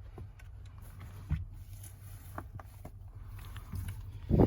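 Scattered metallic clicks and knocks of hand tools and loose car parts being worked, over a steady low hum, with a louder knock near the end.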